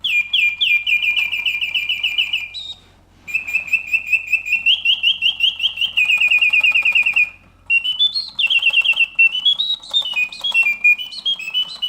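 Reuge singing bird cage automaton singing: its bellows-driven whistle gives high, rapid trills and chirping phrases, with short pauses about three and seven seconds in. The song runs cleanly, the sign of a mechanism working as it should.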